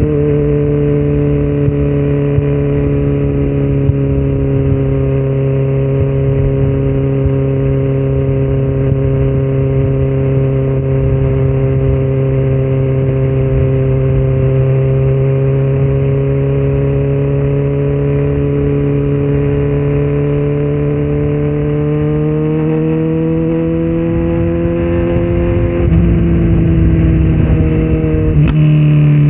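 2018 Kawasaki Z900's inline-four with Yoshimura muffler and Delkevic headers, no dB killer, running at steady revs under way for most of the stretch. The revs then climb slowly, the note gets louder as the throttle opens, and it breaks off briefly near the end.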